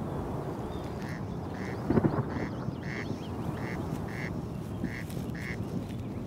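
Corncrake calling its rasping two-note 'crex crex': eight short notes in four pairs, a pair about every second and a quarter, over steady wind noise. A brief thump about two seconds in.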